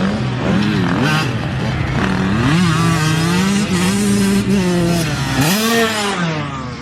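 A dirt bike engine revving hard during a race, its pitch climbing and dropping several times as the rider works the throttle and shifts gears, fading a little near the end.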